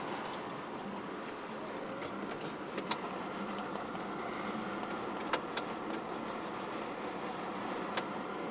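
Car running, heard from inside the cabin: steady engine and road noise, with a few sharp clicks.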